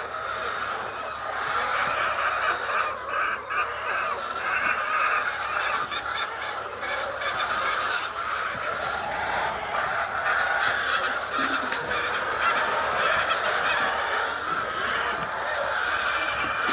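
A flock of laying hens clucking and squawking together in a steady, many-voiced din.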